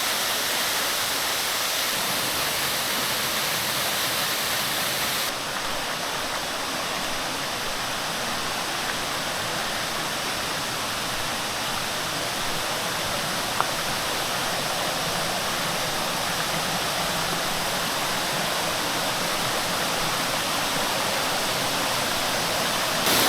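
Waterfall pouring, a steady rush of falling water. About five seconds in the sound changes abruptly and becomes less hissy.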